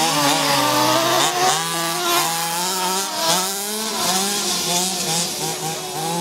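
Small two-stroke petrol engines of large-scale RC monster trucks running and revving, the pitch rising and falling repeatedly with the throttle.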